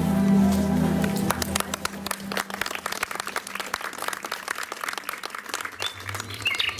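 Held music notes that fade out about a second and a half in, giving way to an audience clapping. A bird chirps a few times near the end.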